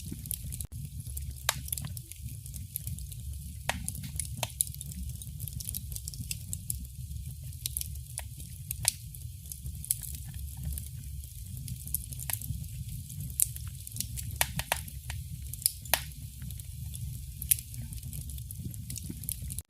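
Wood fire crackling in a fireplace: irregular sharp pops and snaps, a few louder than the rest, over a steady low rumble and soft hiss of the flames.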